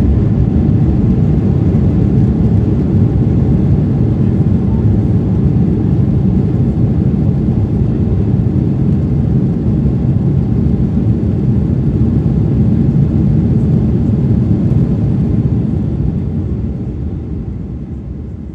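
Loud, steady rumble inside the cabin of a Boeing 737-900ER during landing: its CFM56 jet engines and rushing air, easing off over the last few seconds as the jet slows.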